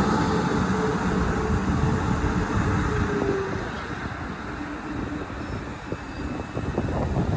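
South Western Railway Class 450 electric multiple unit on the level crossing, its running sound steady with a held whine that drops slightly and fades out about three and a half seconds in, the overall sound then easing off. A few light clicks come near the end.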